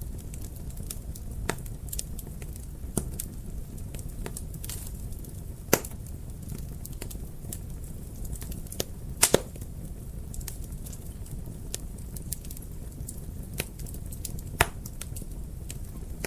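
Wood fire crackling in a fireplace: a steady low rumble of burning with sharp pops and snaps every second or two, the loudest a quick double pop about nine seconds in.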